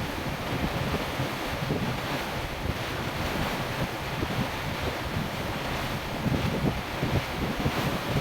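Wind buffeting the microphone aboard a moving ferry, a steady rush with gusty low rumbling, over the wash of water against the hull.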